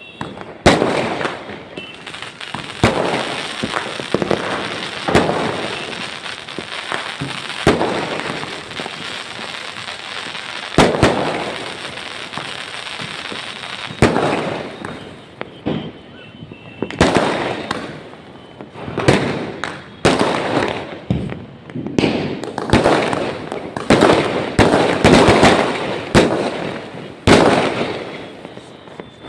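Fireworks and firecrackers going off over and over: sharp bangs with a dense crackling stretch in the first half, then a run of separate bangs, each trailing off, in the second half.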